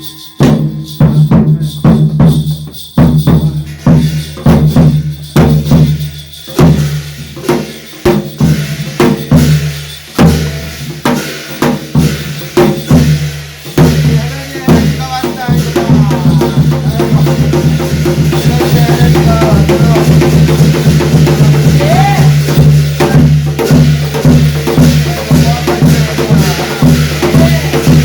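Korean shaman ritual (gut) music: drums and percussion beat a steady rhythm. From about halfway the playing grows denser and more continuous, with a wavering melody line over it.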